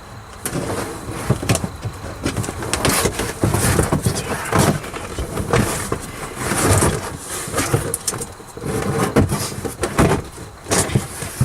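Irregular rustling, crinkling and scraping with small knocks as a sheet of sound deadener is handled and pushed into place against a car's roof.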